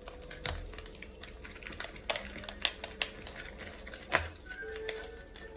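Irregular clicking and tapping of a utensil against a bowl while cornbread batter of mix, egg and milk is stirred, with a louder knock about four seconds in.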